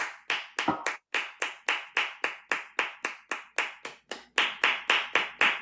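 One person clapping in a steady, even rhythm of about four claps a second, with a short break about four seconds in.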